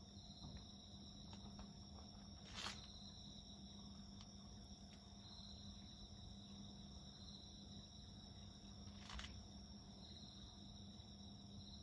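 Faint, steady high-pitched trilling of crickets, with two sharp pops from a wood bonfire, one about two and a half seconds in and one near nine seconds.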